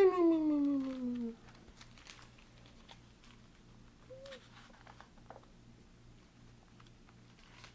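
A man's voice making a long sleepy sigh that slides steadily down in pitch and fades out in the first second or so. After it there is only a faint low pulsing hum and a few small ticks.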